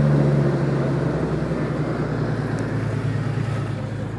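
A 1998 Jeep Grand Cherokee ZJ's fuel-injected engine runs at a fast idle just after a cold start in deep frost, with its revs easing down slightly in the first second or two.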